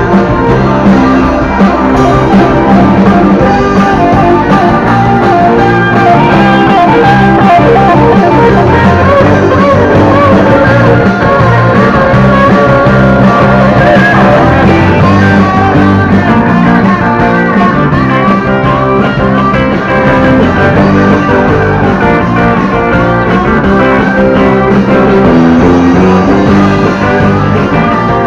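Rock band playing an instrumental section led by guitar, the lead line bending and wavering over the band's steady accompaniment.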